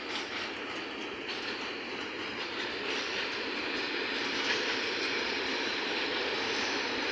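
Intermodal container freight train rolling past at close range: the steady noise of its flat wagons' wheels on the rails, growing a little louder as it goes.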